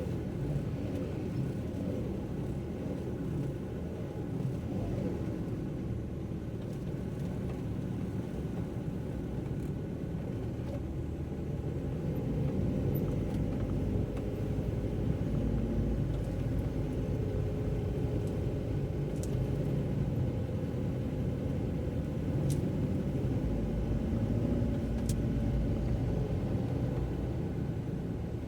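Car driving on a wet road, heard from inside the cabin: a steady low rumble of engine and tyres that grows slightly louder about halfway through.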